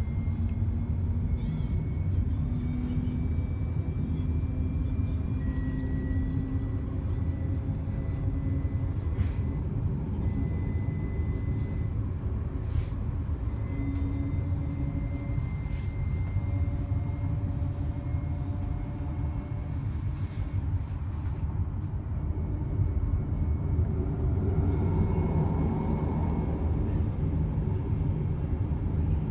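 TriMet MAX light-rail car running between stations, heard from inside the car: a steady low rumble with faint thin whining tones that shift in pitch now and then.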